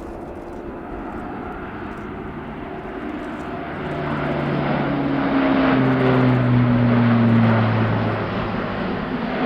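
Airbus A400M's four TP400 turboprop engines and propellers droning as the aircraft flies past. It grows louder to a peak a few seconds in, and the propeller tone drops in pitch as it goes by.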